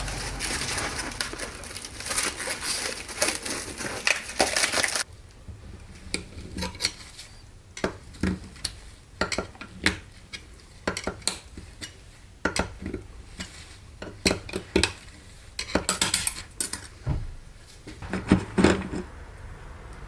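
Metal transmission parts clinking and clattering as they are handled, in a run of separate sharp clicks and knocks. For the first five seconds a steady hiss runs under them, then stops abruptly.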